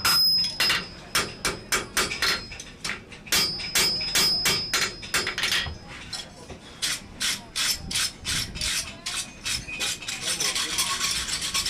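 Blacksmith's hand hammer striking hot iron on an anvil in a steady rhythm of about three blows a second, with a high metallic ring under some of the blows. Near the end the strokes come quicker and merge into a rasping sound.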